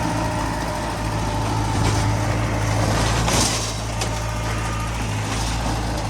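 Heavy diesel construction machinery engine running steadily, with a brief burst of noise about three and a half seconds in.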